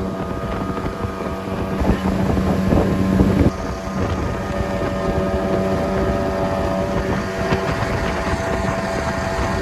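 Two-stroke outboard motor of a jet boat running steadily under way, with wind buffeting the microphone. The engine note shifts slightly about three and a half seconds in.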